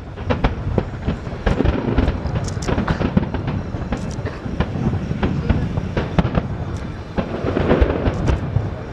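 A fireworks display: shells bursting in quick, irregular succession, with many sharp bangs and crackles over a continuous low rumble.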